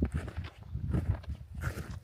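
A hiker's footsteps, a crunching step roughly every half second, over a steady low rumble.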